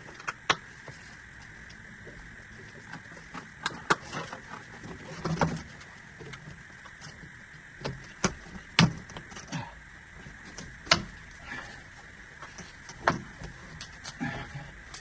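Irregular knocks and clicks of plastic drain pipe and fittings being handled and pushed together, over a steady hiss of rain.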